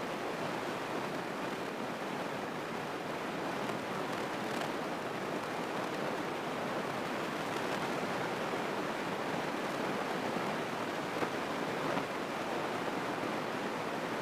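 Steady, even rushing noise inside a small single-engine airplane's cockpit while it taxis, heard through the headset intercom as a smooth hiss with no distinct engine tone.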